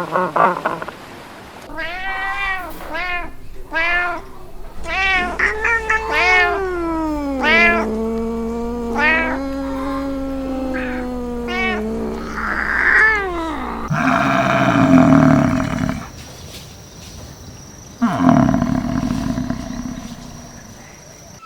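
Animal calls: a quick series of short rising-and-falling cries, then one long held call, then two harsher calls near the end.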